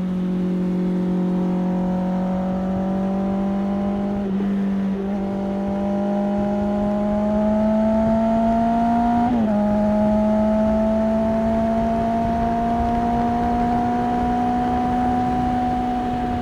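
Honda CB650R's inline-four engine through an IXIL aftermarket exhaust while riding, its note slowly climbing in pitch under throttle. About nine seconds in there is a quick gear change that drops the note, and it climbs steadily again.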